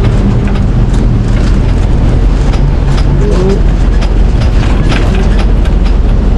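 A vehicle in motion: a loud, steady low rumble with a scattering of sharp rattling clicks.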